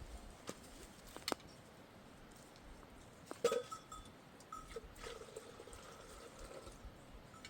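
Bells on grazing sheep clinking on and off, with a few sharp knocks. The loudest is a short knock about three and a half seconds in.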